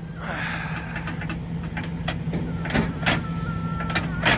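Semi truck's diesel engine running steadily, with several sharp metallic knocks in the second half as the tractor tries to couple its fifth wheel to a trailer that is still not hooking.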